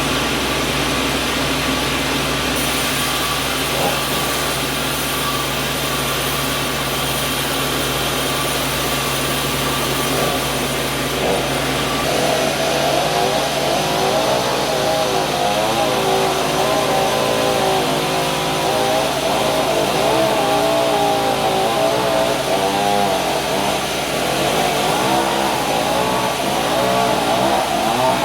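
Sawmill machinery running with a loud, steady mechanical din. About twelve seconds in, a wavering whine joins it, rising and falling in pitch.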